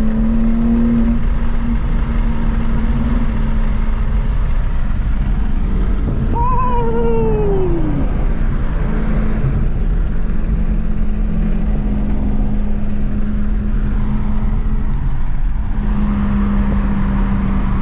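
BMW G80 M3's twin-turbo straight-six with a single midpipe, heard from the cabin as a steady engine drone over road noise while driving in sport mode. About six seconds in, a short high squeal rises and then falls away over a second or so.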